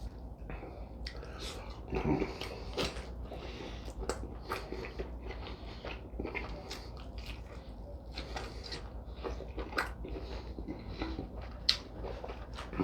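A man chewing a juicy mouthful of ribeye steak close to the microphone: wet squishing and irregular lip smacks, with one sharper click near the end.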